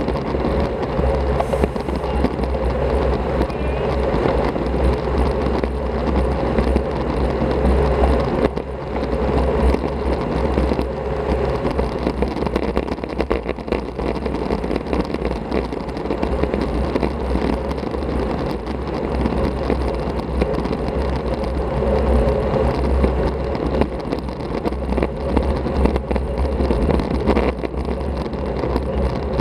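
Steady rush of wind and road noise from a Masi Speciale Strada road bike riding along at speed, with heavy low wind buffeting on the microphone.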